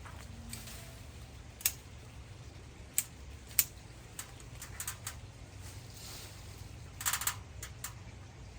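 Hand pruning shears snipping twigs: short, sharp clicks spaced a second or so apart, with a quick run of snips near the end.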